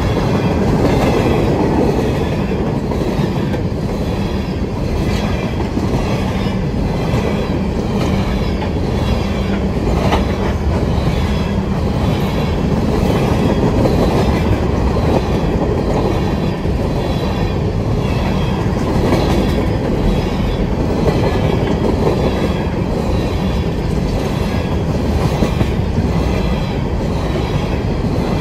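Empty coal hopper cars of a freight train rolling steadily past, a continuous rumble with the even clatter of wheels over the rail joints.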